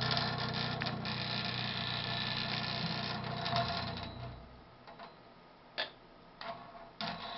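Rattling buzz from the plumbing under a bathroom sink, a steady fast vibration that stops suddenly about four seconds in. A few sharp clicks follow.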